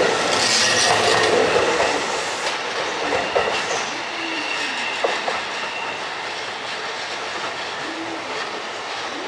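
JR East electric multiple-unit train running along the platform, its wheels clattering over the rail joints. It is loudest at first, then fades gradually as it draws away, with a faint high wheel squeal partway through.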